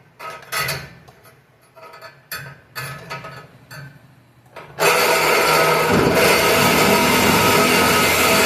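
A few scattered clatters and scrapes, then about five seconds in a Warrior reciprocating saw starts abruptly and runs steadily and loudly, cutting into a truck's exhaust pipe.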